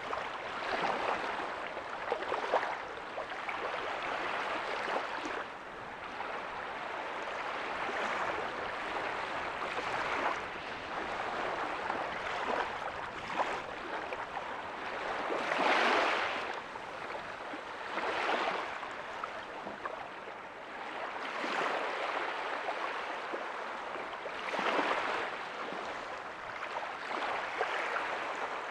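Small ocean waves breaking softly on a beach, a steady wash of surf that swells every few seconds with a louder break about halfway through.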